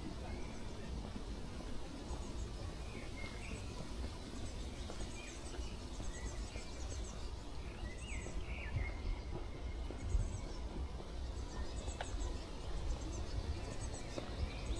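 Small birds chirping over a steady low background rumble: short calls and thin, high trills come every second or two.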